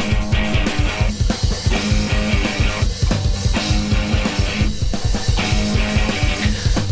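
Live noise rock band playing: fast, driving kick drum hits, several a second, under sustained distorted guitar and cymbal wash.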